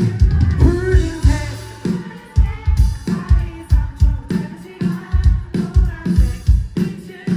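Live band playing a pop-rock song with a steady kick-drum beat, about two strikes a second, while a crowd sings the chorus along.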